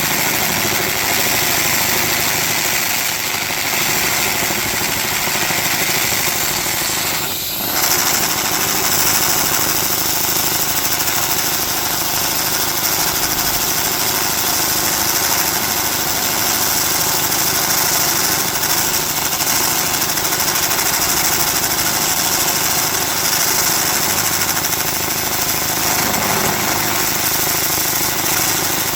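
Handheld laser rust-removal cleaner ablating rust and paint off a steel table, a steady dense hiss. It breaks off briefly about seven seconds in, then resumes with a brighter hiss.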